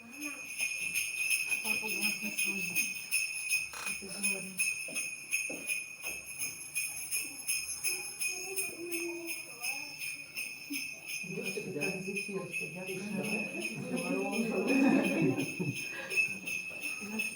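Sleigh bells jingling continuously in a steady, rapid shake, with a murmur of voices underneath that grows louder about two-thirds of the way through.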